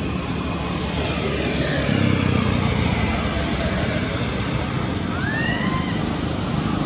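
Steady outdoor rumble of passing traffic, slowly swelling and easing, with a faint high chirp about five seconds in.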